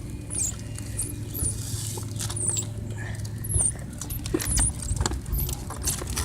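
A hand-cranked ride-on car being driven by pumping its back-and-forth handle: short high squeaks about once a second, with clicks and knocks from the crank linkage and wheels.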